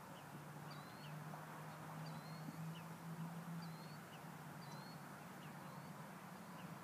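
Faint open-air ambience: a low steady hum, and over it a bird repeating a short high chirp about every second.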